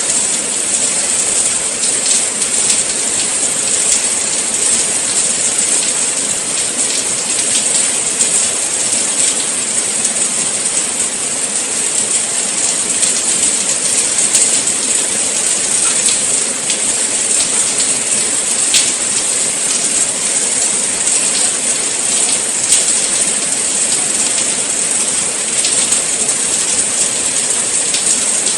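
Steady rain falling, a dense even hiss with many fine drop ticks and no let-up.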